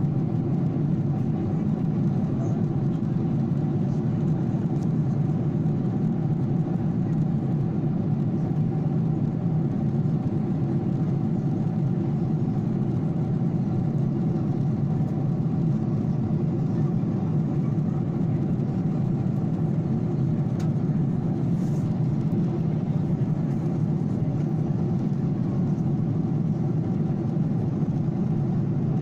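Steady drone of a passenger airliner's cabin in flight: engine and airflow noise, unchanging throughout.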